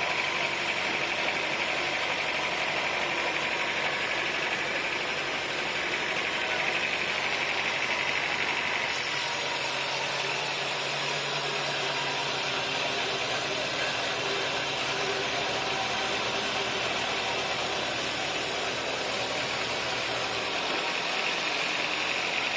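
Sawmill engine running steadily. About nine seconds in the sound grows brighter and hissier, and it settles back about twenty seconds in.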